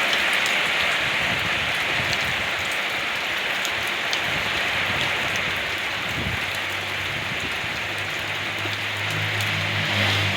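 Steady rain falling, an even hiss with scattered drop ticks. About halfway through, a low steady hum comes in under it and carries on to the end.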